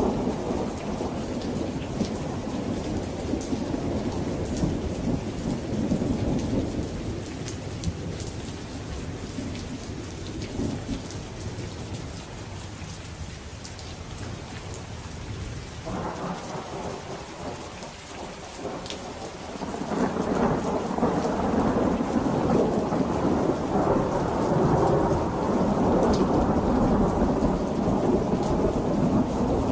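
Thunderstorm: steady rain with rolling thunder. One roll of thunder fades out through the middle, then a new one starts about halfway through and grows loud again for the rest.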